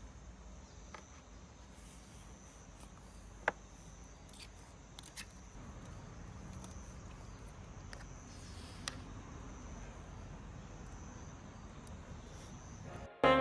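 Faint outdoor ambience with a steady high chirring of insects, broken by a few small sharp clicks and taps. Saxophone background music cuts in at the very end.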